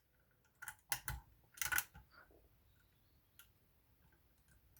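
Lever-lock pick and tension tool clicking against the levers inside a Union 3G110 five-lever lock, a handful of sharp clicks in the first two seconds, then faint scattered ticks.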